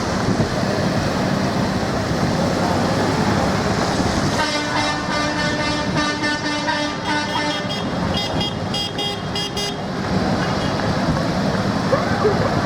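Parade tractors running by amid traffic noise, with a horn tooting for about five seconds from about four seconds in, ending in a run of quick toots.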